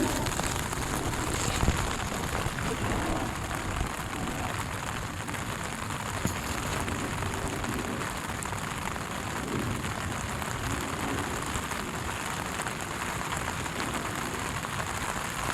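Steady rain falling, an even patter that does not let up.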